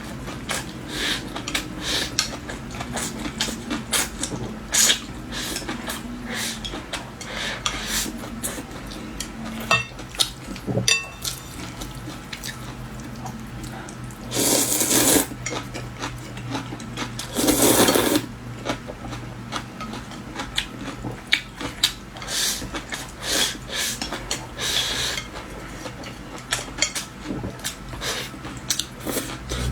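Close-up eating sounds: utensils clicking against a bowl and chewing, with many short clicks throughout and two longer, louder slurps of noodles about a quarter and a half of the way through.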